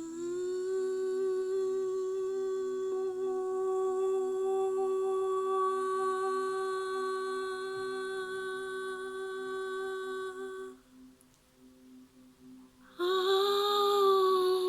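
A voice humming a long held note on one pitch for about ten seconds, which stops, then a second, louder hum starting about 13 seconds in with a wavering pitch. A faint steady ringing tone sits underneath throughout.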